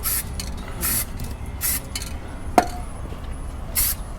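Primer spraying onto a boat's transom in short hissing bursts, three in quick succession and another near the end, with a single sharp knock in between. Wind rumbles on the microphone underneath.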